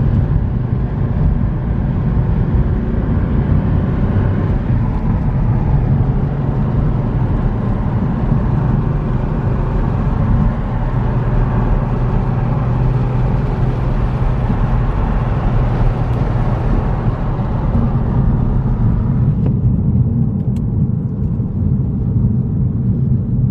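1990 Porsche 964's air-cooled flat-six running steadily while the car is driven. About twenty seconds in, the brighter upper part of the sound drops away suddenly, leaving a duller low drone.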